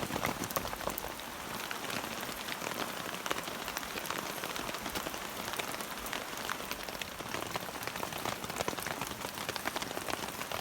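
Steady rain falling, with many separate drops ticking in a constant wash.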